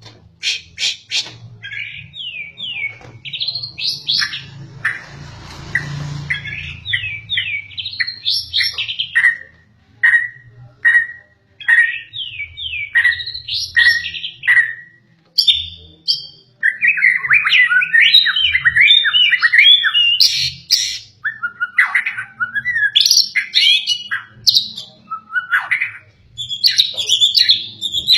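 White-rumped shama singing: runs of repeated down-slurred whistled notes, then, about halfway through, a faster and more varied stream of rich warbled phrases.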